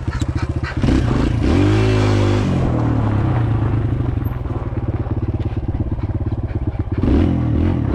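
Kawasaki KLX 140L dirt bike's small single-cylinder four-stroke engine running. It is revved about a second in, the pitch rising and then falling back, and revved briefly again near the end.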